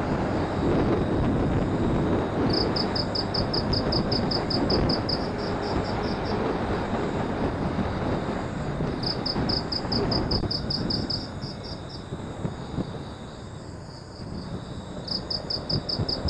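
Motorcycle running at road speed, its engine and the rush of wind over a phone microphone making a steady roar that eases a little about two-thirds of the way through. Three bouts of fast, high, evenly pulsed chirping, like roadside insects at night, come and go over it.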